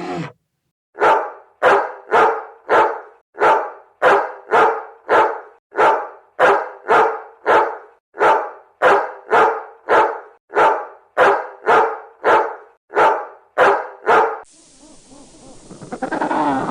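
A dog barking steadily, about two barks a second, some two dozen in a row. The barking stops near the end and a steady hiss takes over.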